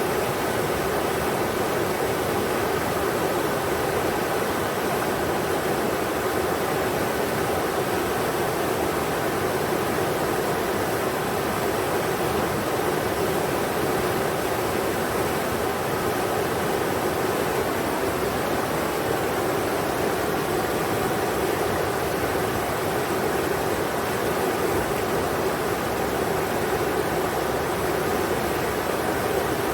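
Steady rushing of the Englishman River flowing over rocks, an even noise with no breaks.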